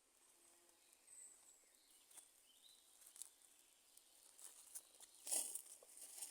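Faint wood fire crackling, with scattered sharp pops and a louder cluster of crackles about five seconds in. A faint bird chirps once or twice in the background.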